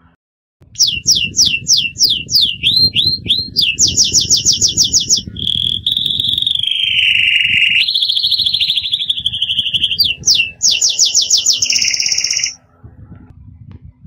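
Bird-song ringtone: rapid falling whistles repeated about four times a second, then fast trills and a long warbling whistle, over a low noisy hiss. It breaks off near the end.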